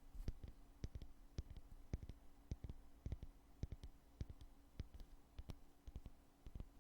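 Lid of a cosmetic foundation container being opened and closed over and over: a faint, irregular string of soft clicks and light knocks, a few each second.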